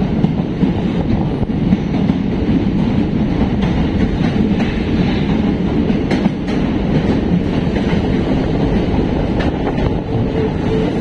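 Passenger train running along the track, heard from on board: a steady, loud rumble with a few sharp clacks from the wheels on the rails.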